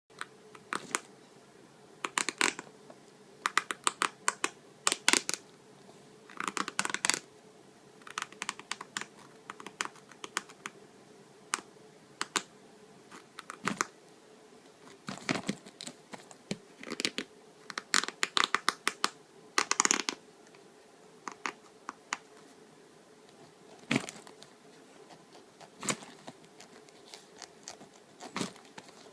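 A cat scratching inside a suitcase: irregular clusters of quick, sharp scratching strokes with short pauses between them.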